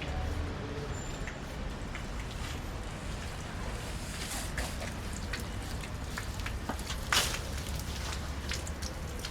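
Outdoor city street ambience: a steady low rumble with scattered irregular ticks and clicks, and one louder knock about seven seconds in.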